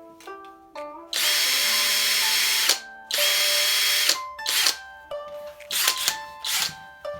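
Abeden HY-2035 18V brushless cordless drill driver running in two long bursts of about a second each, then several short blips of the trigger, over background music.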